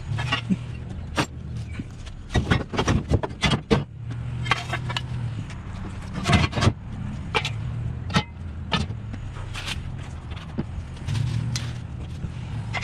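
Scrap metal being loaded into a truck: many irregular sharp knocks and clanks of metal pieces over a steady low hum of a running vehicle engine.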